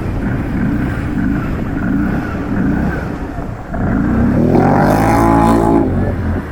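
Can-Am ATV engine running under throttle, with a louder rev-up about four seconds in that holds for a couple of seconds and then eases off near the end.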